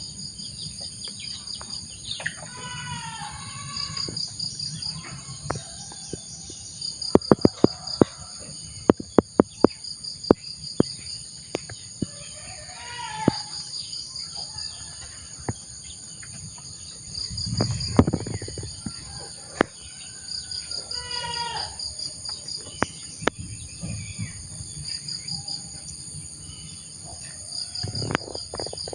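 Insects shrill steadily in several high bands, one of them pulsing, while birds call several times in short descending phrases. About seven seconds in, a quick string of sharp, loud cracks comes over a few seconds: the M416 airsoft gun being fired.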